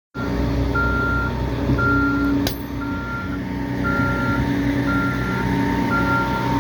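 Backup alarm of a heavy work vehicle beeping about once a second, each beep about half a second long, over the vehicle's engine running steadily. There is one sharp click about two and a half seconds in.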